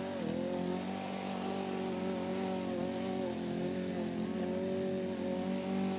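Lawn mower engine running steadily, its pitch dipping briefly near the start and again about three seconds in as it takes load going over a mound.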